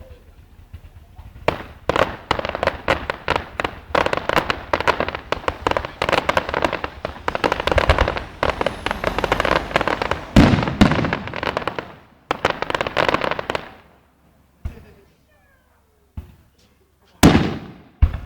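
Fireworks display: a long run of rapid crackling bangs from many shells bursting together, with a few deeper booms in the middle, thinning to a handful of single bangs near the end.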